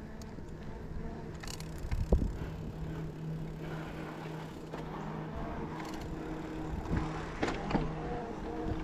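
Riese & Müller Roadster e-bike being ridden: wind and tyre noise with a steady low hum, and a few sharp knocks, the loudest about two seconds in.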